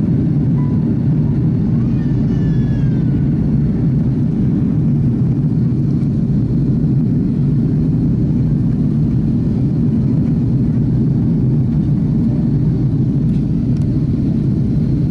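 Airbus A330 airliner's engines, a steady low rumble.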